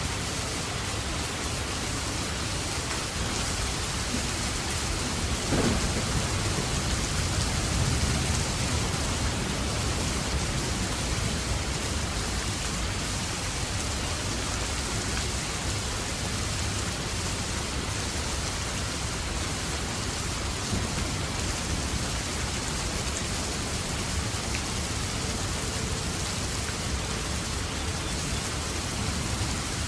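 Steady heavy rain falling, with a low rumble of thunder swelling about six seconds in.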